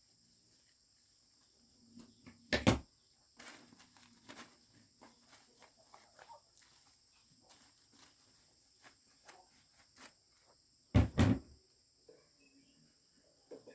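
Things being handled and knocked: a run of small clicks and knocks, with two loud double knocks, one a few seconds in and one about three-quarters of the way through, over the steady high drone of crickets.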